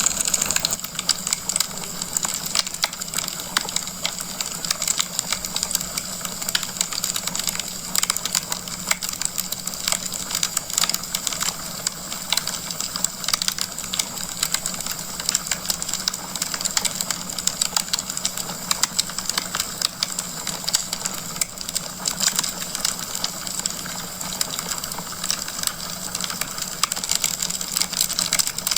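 Wood fire crackling in a fireplace: a dense, irregular stream of small pops and snaps over a steady hiss.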